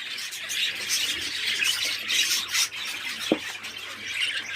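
Many small parrots, budgerigars and lovebirds, chattering and squawking together in a breeding aviary, a dense overlapping mass of high chirps, with one short rising call a little past three seconds in.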